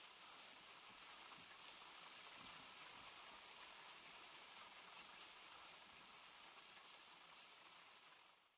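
Faint steady rain, an even hiss of drops on a surface, fading out near the end.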